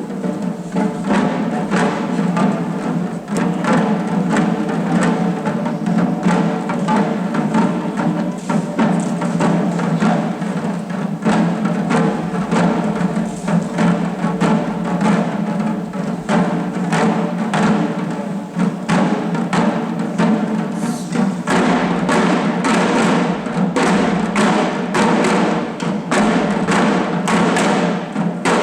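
Taiko drums of the shishi-odori deer dancers beaten in a steady rhythm over a dense, sustained pitched sound, the beats quickening and sharpening about twenty seconds in.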